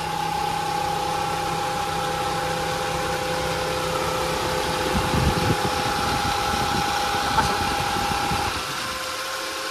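Nissan GA13 carburetted four-cylinder engine idling with an electric cooling fan running, a steady whine over the engine rumble. Part of the whine stops about eight and a half seconds in.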